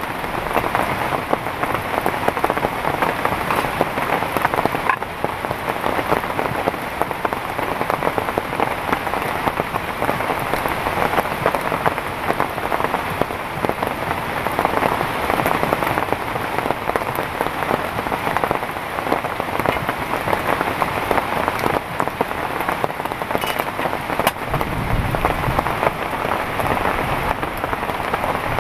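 Heavy rain falling steadily, a dense patter of drops on surfaces. A brief low rumble comes near the end.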